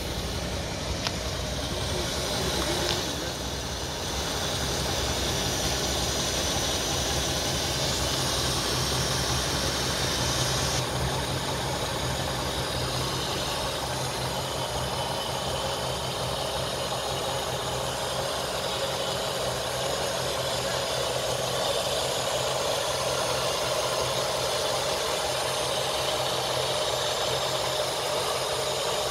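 Chevrolet 409 cubic-inch V8 idling steadily, with a hiss over it for roughly the first ten seconds.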